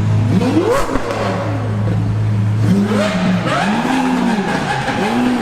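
Sports car engine idling steadily, then revved in several short blips about halfway through, its pitch rising and falling with each one.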